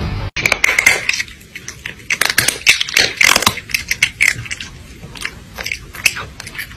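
Loud, close crunchy chewing: a rapid, uneven run of bites and crunches that starts abruptly a moment in.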